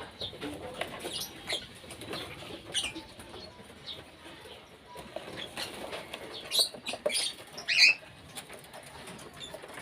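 Cockatiels in a colony cage: scattered short chirps and calls over wing flutters and scuffling on perches and cage wire, busiest about two-thirds of the way in.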